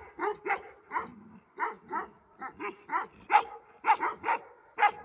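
Shepherd dog barking repeatedly, short barks coming in quick uneven runs, about a dozen over a few seconds.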